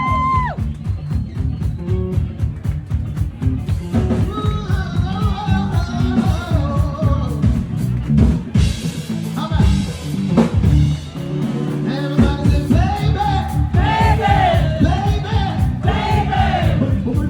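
Live band music with a steady drum beat and a sung vocal line that comes in about four seconds in and again near the end.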